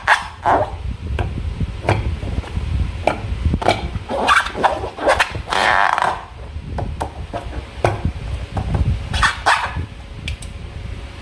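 Slime being squeezed and kneaded by hand, with irregular wet squelches and sharp clicks and pops. The biggest squelches come at about four and a half, six and nine and a half seconds in.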